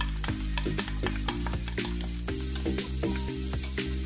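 Chopped red onion and garlic sizzling in hot oil in a nonstick pan, with a wooden spatula scraping and clicking against the pan as it stirs.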